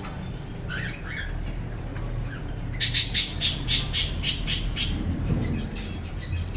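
Budgerigar calling: a few short chirps, then a quick run of about nine harsh squawks, some four or five a second, before it drops back to faint chatter.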